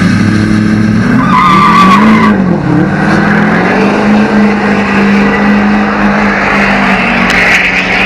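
Truck engine held at high revs, its pitch dipping and climbing again about two seconds in, with tyres squealing: a burnout.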